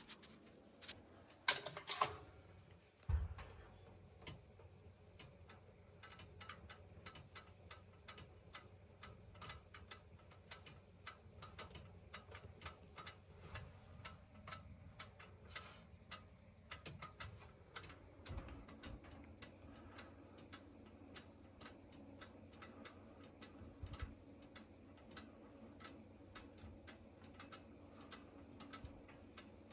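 Gas oven with a bad igniter making fast, irregular ticking while in use, the noise the faulty igniter causes. A few louder knocks come in the first three seconds, and a low steady hum joins about midway.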